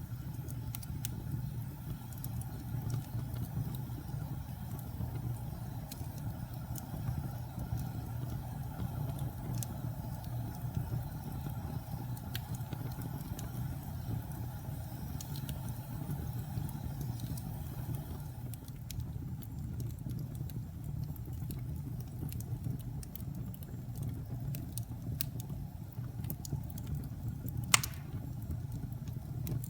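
Wood fire burning in a fireplace: a steady low sound of flames with scattered small crackles and pops, and one sharper pop near the end.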